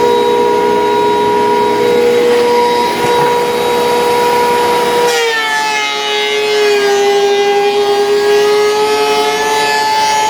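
Thickness planer running with a steady motor whine; about five seconds in the whine drops in pitch and turns rougher as the cutterhead takes a pass on a maple board.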